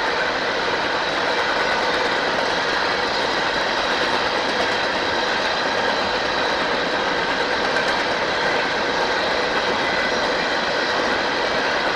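Train rolling past a grade crossing: a steady noise of steel wheels on rail, with a few faint steady tones in it and no change in level.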